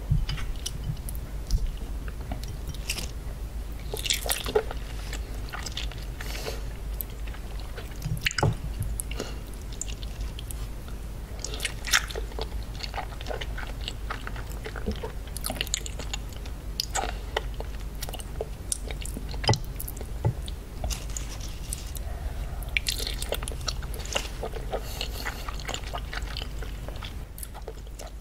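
Close-miked chewing and biting of thick slices of raw salmon sashimi, eaten by hand: wet, smacking mouth sounds with irregular clicks throughout.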